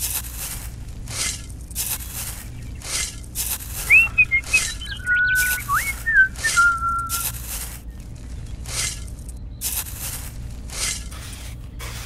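Rice grains being scooped with a small toy metal shovel and tipped into a toy trailer, a short rattling swish with each scoop, a little more often than once a second. In the middle, someone whistles a few rising and held notes for about three seconds.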